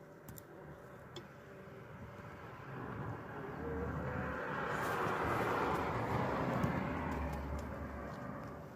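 A passing vehicle: a rumbling noise swells over a few seconds, peaks about the middle and then fades away. A couple of faint clicks come in the first second or so.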